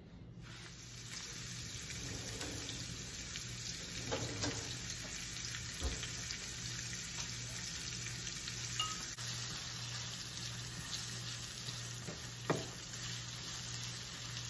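Sausage, spinach, onions and peppers sizzling steadily in a nonstick frying pan, with scattered small clicks and one sharp knock of the spatula against the pan about twelve seconds in. A low steady hum runs underneath.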